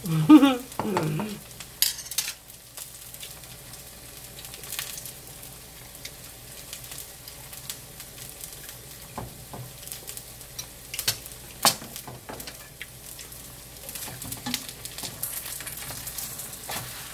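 Vegetable pancake frying in oil in a nonstick pan: a steady sizzle dotted with sharp pops and clicks. A brief hum-like vocal sound comes right at the start.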